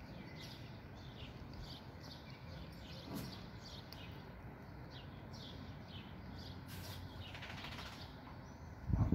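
Birds chirping, many short high calls repeating over a steady low hiss. Near the end a sudden loud low rumble sets in.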